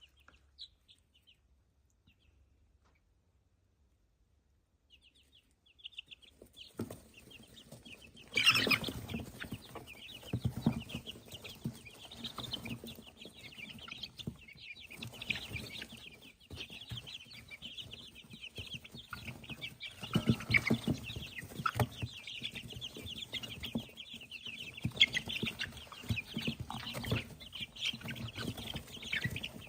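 Young chickens, grown chicks, peeping and clucking busily after a few seconds of near silence, with a sudden loud burst of noise about eight seconds in and scuffling underneath.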